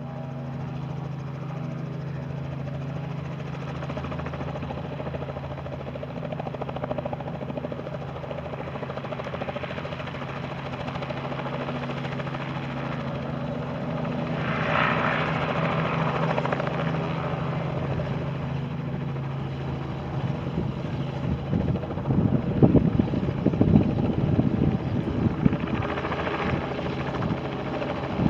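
Robinson R44 helicopter, its six-cylinder Lycoming piston engine humming steadily under the rotor. About two-thirds of the way in, a loud beating chop from the rotor takes over and grows louder.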